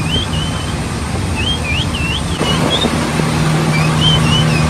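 Motor running steadily, its hum firming up about halfway through, with a string of short, wavering high whistles rising and falling over it.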